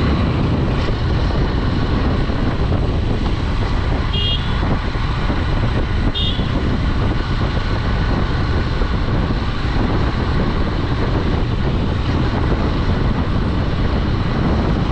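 Wind rush and engine of a Honda Dream 110 commuter motorcycle riding along a road. A horn beeps briefly twice, about four and six seconds in.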